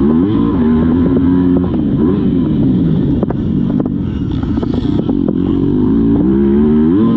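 Motocross bike engine at race pace, its pitch climbing and dropping again and again as the throttle is worked and released, with a sharp rise near the end. Scattered sharp knocks sound over it.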